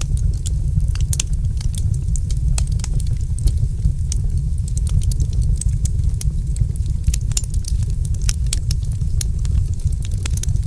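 Wood fire crackling, with many sharp irregular pops and snaps over a steady low rumble of the burning.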